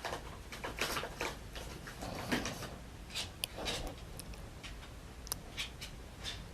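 Faint scattered clicks, taps and rustles in a quiet room, irregular and short.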